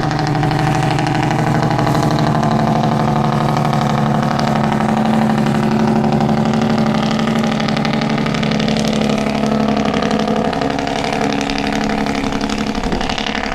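Heavy diesel truck engine loud with its engine brake (Jake brake) on, a steady, rapid pulsing drone as the truck descends a grade. Its pitch steps down slightly about ten seconds in.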